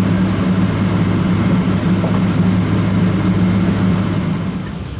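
Steady low droning hum inside a Boeing 777-200ER cabin after landing, easing off a little near the end.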